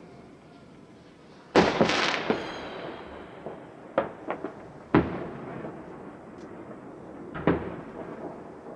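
Fireworks exploding: a loud bang about one and a half seconds in with a hissing, crackling tail, then several sharper single bangs spread over the following seconds.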